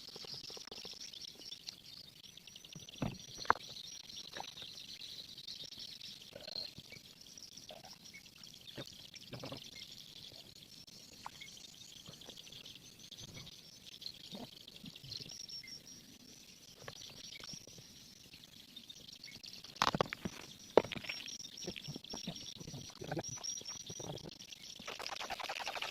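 A steady, high-pitched chirring chorus of insects, with scattered sharp clicks and knocks; a cluster of louder knocks comes about twenty seconds in.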